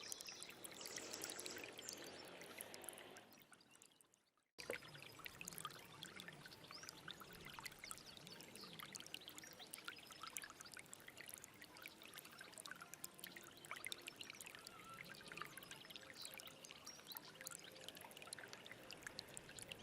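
Small stream babbling and gurgling over stones. The water fades away to silence about three to four seconds in, then starts again abruptly, as at a cut between two recordings.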